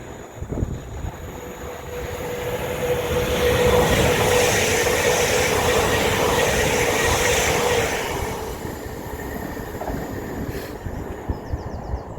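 A train passing at speed: the rush of wheels on rail builds, stays loud for about four seconds with a steady high tone running through it, then fades as it goes by.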